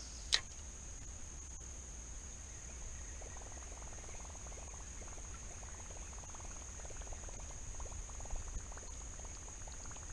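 Steady high-pitched buzz of insects calling, with one sharp click just after the start. From about three seconds in, a rapid run of faint ticks and gurgles comes in over it.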